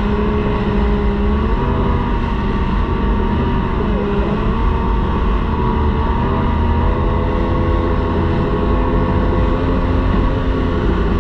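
Racing outboard motor running at full speed, its pitch holding nearly steady with brief dips, over a heavy low rush of wind and water on the onboard microphone.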